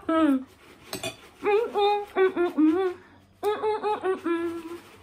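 A woman humming a wordless tune in short phrases, with a single clink of cutlery on a plate about a second in.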